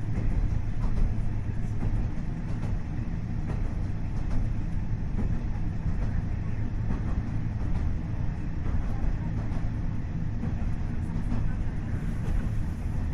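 Inside the cabin of a KiHa 40 series diesel railcar under way: its DMF15HSA six-cylinder diesel engine runs with a steady low drone, with scattered clicks of the wheels on the track.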